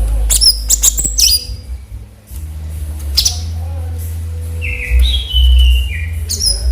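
Cucak cungkok bird calling: a quick cluster of sharp, high chirps at the start, another chirp about three seconds in, then a run of short falling whistled notes near the end, over a steady low hum.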